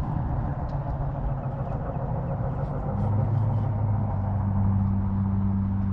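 Steady low engine hum with a constant drone, growing slightly louder about three seconds in.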